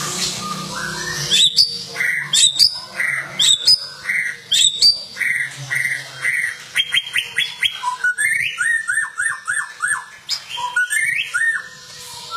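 White-rumped shama (murai batu) singing a varied song of short whistled phrases, with runs of repeated sharp notes and, about two-thirds through, a string of quick falling whistles.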